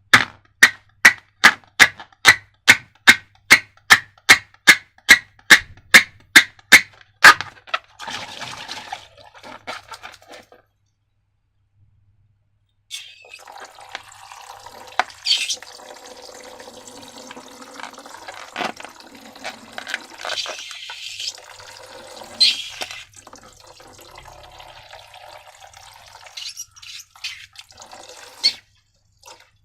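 A rapid, even series of sharp clicks, nearly three a second, for about seven seconds. After a short pause comes a long stretch of wet squelching and dripping from liquid slime being worked and poured, with a few sharper clicks among it.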